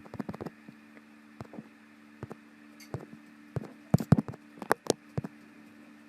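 Irregular sharp clicks and taps over a steady low electrical hum, with the loudest cluster of clicks a little past the middle.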